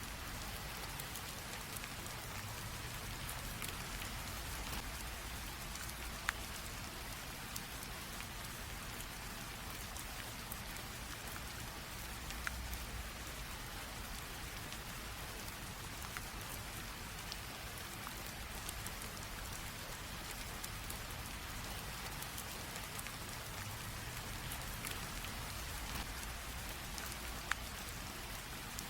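Light rain drizzling steadily, an even patter with scattered individual drops ticking, a few of them louder, and a faint low rumble underneath.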